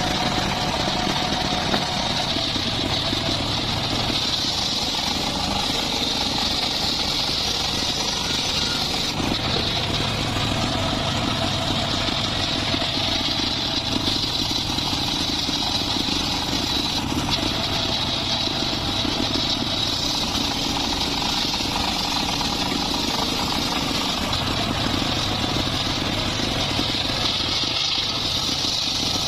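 Engine of a homemade circular saw rig running steadily, with a steady high whine above it.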